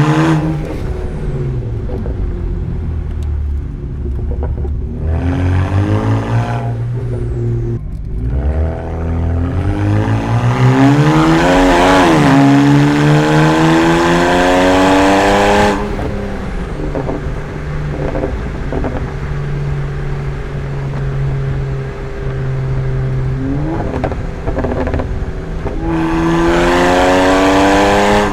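BMW E93 335i's turbocharged straight-six, breathing through catless downpipes and a muffler delete, pulling hard several times with the engine note rising, then dropping suddenly as the throttle is lifted or the gear changes. It settles into a steady cruise for several seconds, and a last pull rises near the end.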